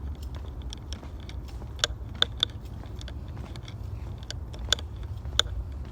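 Footsteps on a forest trail: a few sharp, irregular crunches or twig snaps, over a steady low rumble.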